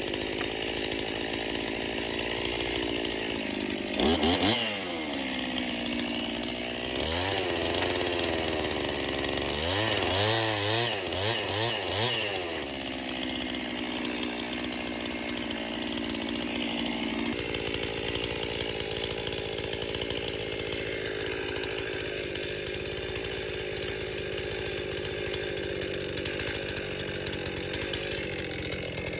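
Stihl MS261 two-stroke chainsaw cutting through a poplar log. The engine pitch swings up and down twice in the first half, then holds steadier and lower under load.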